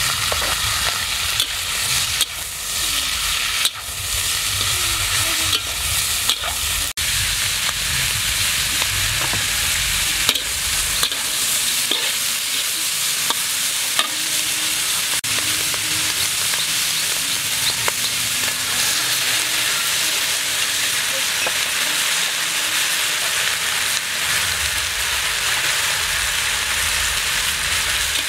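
Sliced beef heart sizzling steadily in a hot metal wok, stirred with a metal spatula that scrapes and knocks against the pan now and then.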